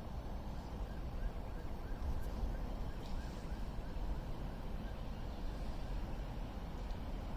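Steady low rumble of a railway platform's background, with faint short chirps repeating a few times a second for a couple of seconds about a second in.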